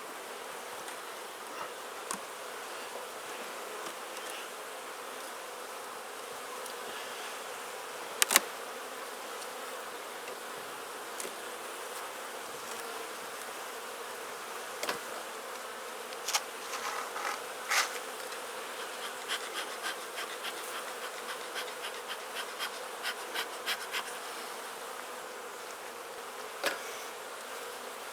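A honeybee colony humming steadily from an opened Langstroth hive during a frame inspection. Sharp clicks and knocks break in now and then, the loudest about eight seconds in, with a run of light ticking in the second half.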